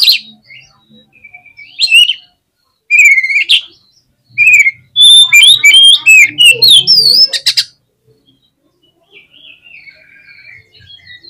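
Oriental magpie-robin (kacer) singing fast, whistled phrases of quickly rising and falling notes in several loud bursts, then a much softer run of song near the end.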